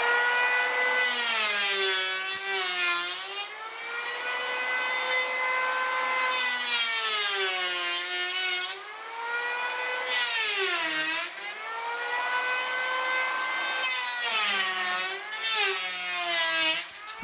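Electric hand planer running and shaving a pau d'arco hardwood plank. Its high whine sags in pitch several times as the blades bite into the wood, then climbs back as the load eases.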